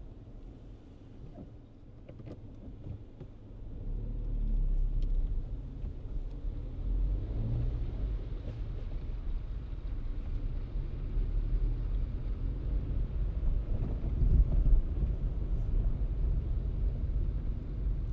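Car being driven: a low, steady rumble of engine and tyres on the road, getting louder about four seconds in.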